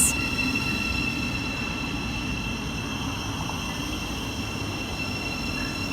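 Electric passenger train at the platform: a steady low rumble with a thin, steady high-pitched whine over it.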